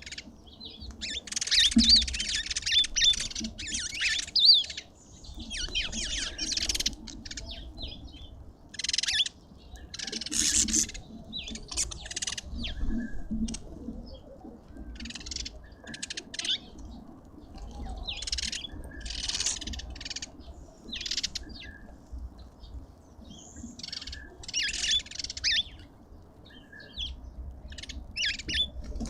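Garden birds chirping and squawking in short, busy bursts of calls every second or two, with brief gaps between them.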